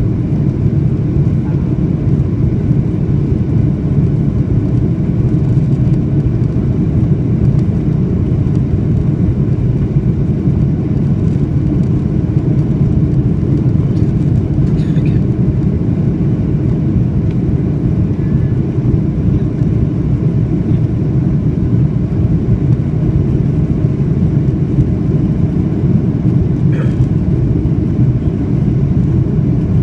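Steady low rumble inside the cabin of a Boeing 737-800: engine and airflow noise.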